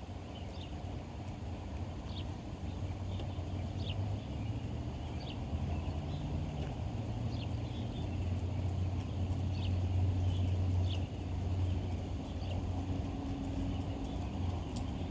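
Birds chirping: short high chirps about once a second, over a steady low rumble.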